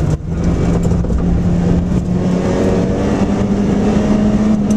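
Nissan Micra rally car's engine heard from inside the cabin under hard acceleration. It drops briefly just after the start, then the note climbs slowly as the car pulls.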